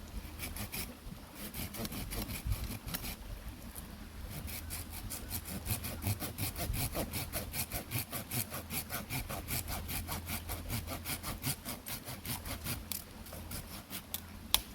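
Hand saw cutting wood: a few uneven strokes, then a steady run of quick back-and-forth strokes, about four or five a second. A single sharp click comes near the end.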